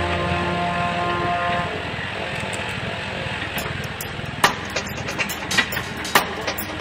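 An old Kobelco mini excavator's diesel engine running steadily, with sharp clicks and knocks coming in from about halfway through.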